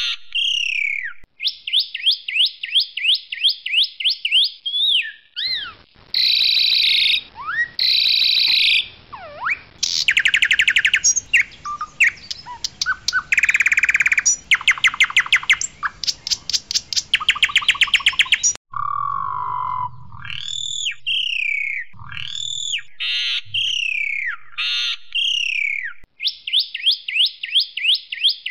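Asian pied starling (jalak suren) singing a loud, varied song. Fast runs of repeated sharp notes about eight a second, harsh buzzy calls, long rapid rattling trills near the middle, and falling whistled notes toward the end.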